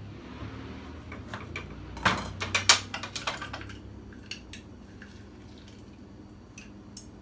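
Kitchen utensils knocking and clinking against dishes during food preparation. A few light clicks, then a quick cluster of sharp knocks about two to three and a half seconds in, then only occasional faint clicks.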